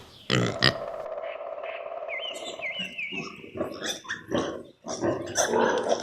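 Domestic pigs calling: a long steady squeal in the first half, then a run of short, irregular grunts and squeals.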